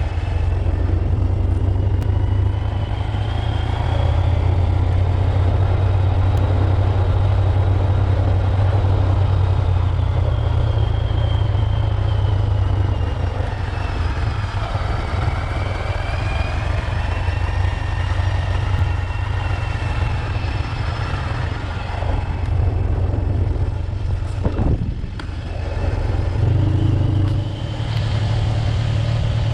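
Motorcycle engine running while riding, with a steady low drone and a higher whine that rises and falls in pitch as speed changes; the sound dips briefly near the end and then picks up again.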